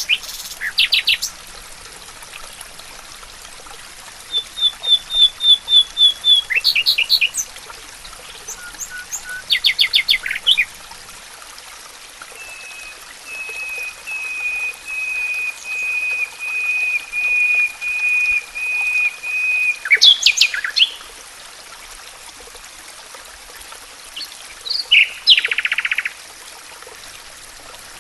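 Forest birds calling and singing: short rapid trills, a quick run of repeated high notes, and a long series of evenly repeated whistled notes lasting about seven seconds. Behind them is a faint steady hiss.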